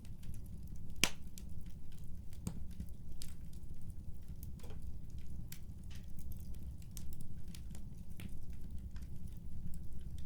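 Wood fire crackling, with irregular sharp pops over a steady low rumble; the loudest pop comes about a second in.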